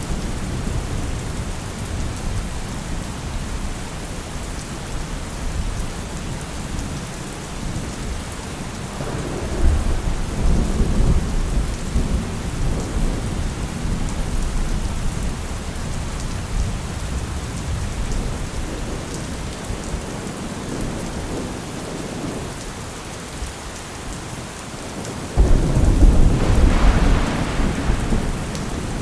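Steady heavy rain with rolling thunder. A low rumble swells about nine seconds in and fades, and a sudden, louder thunderclap breaks about 25 seconds in and rolls on.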